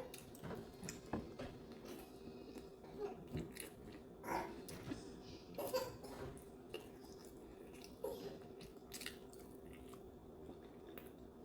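Faint chewing, with scattered small clicks and smacks from the mouth, over a low steady hum.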